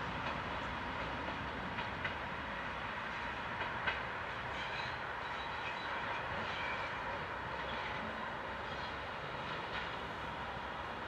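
A passenger train hauled by a MÁV class 460 'Szöcske' electric shunting locomotive rolling away along the track. A steady rolling noise is broken by a few faint scattered wheel clicks at the rail joints.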